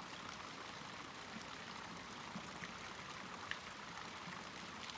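Faint, steady water-like hiss, like a trickling stream, with a few small ticks scattered through it.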